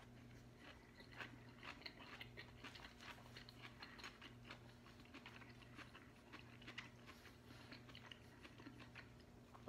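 A person chewing a mouthful of wilted grilled romaine lettuce: faint, irregular wet clicks of the mouth, several a second, over a low steady hum.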